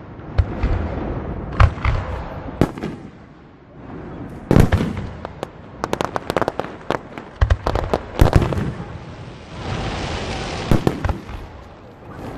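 Aerial fireworks going off at close range: a string of sharp bangs with clusters of rapid crackling pops, and a stretch of steady hissing crackle a little before the end.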